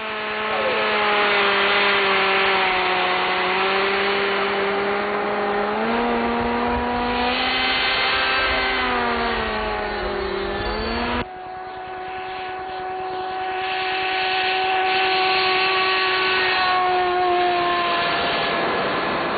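O.S. .91 glow engine driving a Dynamax ducted fan in a model A-4 Skyhawk jet, running at high power with a whine that rises and falls in pitch. It breaks off suddenly about eleven seconds in, then goes on at a steadier pitch that fades away near the end.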